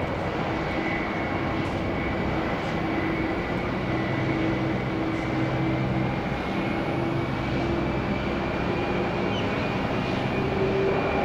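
Airbus A330 jet engines running steadily: a constant high whine over a wide, even rumble. A lower tone edges up slightly in pitch near the end.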